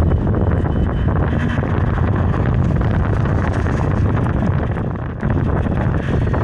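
Wind buffeting the microphone of a camera riding on a moving bicycle: a loud, steady rumble, with a brief dip about five seconds in.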